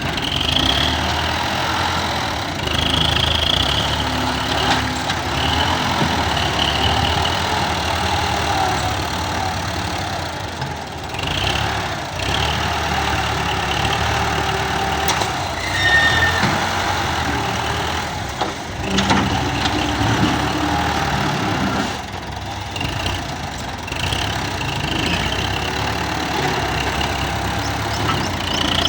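Combine harvester running steadily in a wheat field, its diesel engine and cutting and threshing machinery making a continuous mechanical noise.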